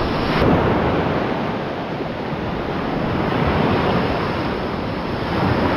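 Surf washing steadily on the shore, a continuous rush of waves rising and falling slightly in loudness.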